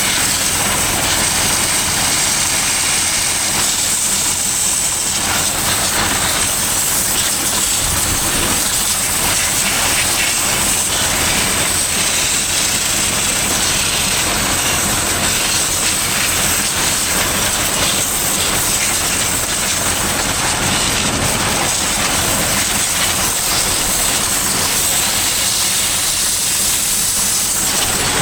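Steady hiss of a water jet spraying down the tractor and baler, with an engine running underneath.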